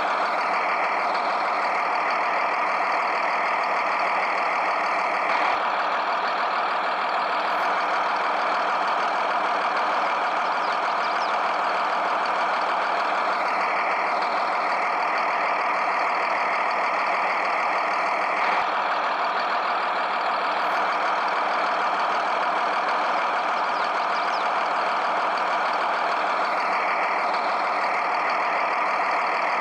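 Steady, loud engine-like running noise that repeats about every 13 seconds, as a looped recording does.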